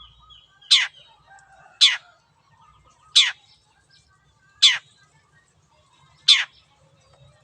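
Long-tailed shrike (cendet) calling: six short calls, each sweeping sharply down in pitch, repeated about every one to one and a half seconds and coming gradually slower.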